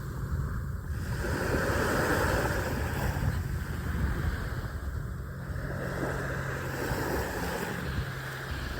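Rushing water and wind on the microphone, swelling and easing, with a faint steady low hum underneath.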